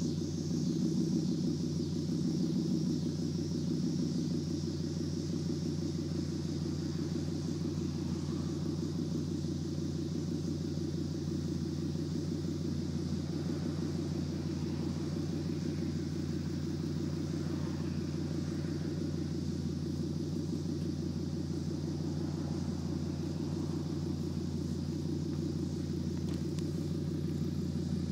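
2008 Chevy Colorado's 3.7-litre inline-five idling through a straight 2.5-inch side-exit exhaust with a Magnaflow resonator and gutted, ported manifold; a steady low rumble, a little louder for the first few seconds before settling.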